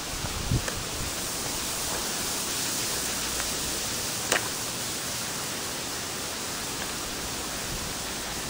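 Murray River floodwater running across a sealed road with a steady rushing hiss. A single sharp click comes about four seconds in.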